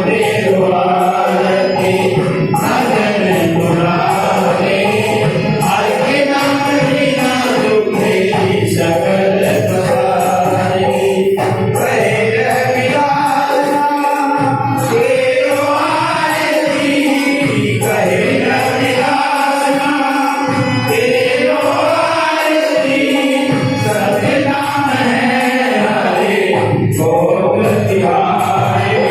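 Group devotional singing (kirtan): several voices chanting a hymn together over music, with long drawn-out sung lines.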